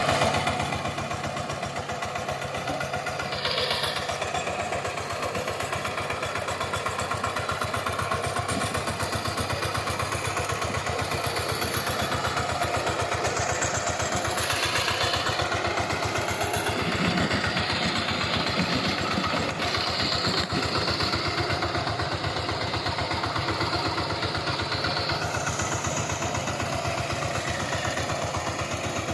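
VST Shakti power tiller's single-cylinder diesel engine running steadily, with a rapid, even firing beat.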